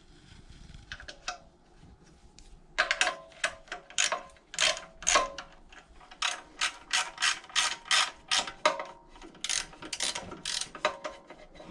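Hand ratchet wrench clicking in repeated short back-strokes as a bolt is run in on an engine. Light handling noise comes first, then about three seconds in a steady run of sharp metallic clicks, a few a second.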